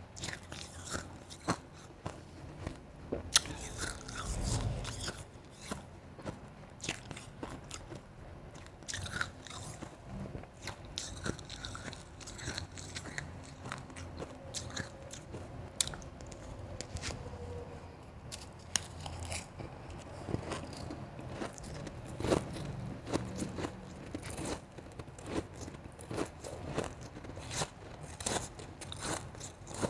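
Close-up crunching and chewing of soft, fluffy blended and shaved ice, eaten in big bites, with many sharp irregular crackles.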